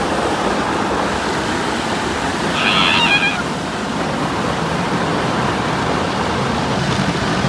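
Car wash water spray, a steady loud rushing. About three seconds in comes one brief high-pitched squeal.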